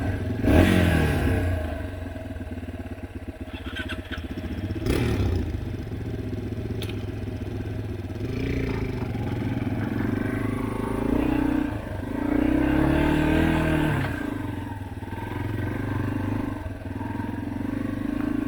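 Dirt bike engine running, its pitch dropping sharply about half a second in, then rising and falling with the throttle through the middle. Two sharp knocks break in, one near the start and one about five seconds in.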